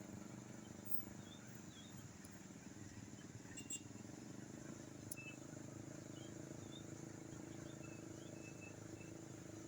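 A vehicle engine running steadily at low level, with a few faint, short high chirps above it.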